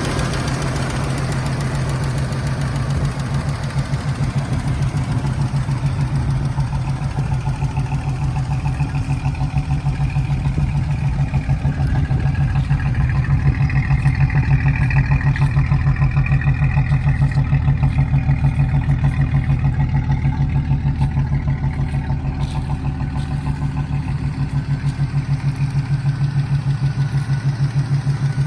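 Rebuilt Jeep 4.2 L straight-six, stroked to 4.7 L, idling steadily on its first run after the rebuild. Its idle rises slightly and gets a little louder through the middle stretch, then settles back.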